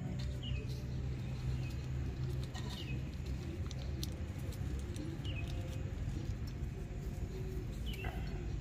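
A bird chirping: four short calls falling in pitch, about two and a half seconds apart, over a steady low hum.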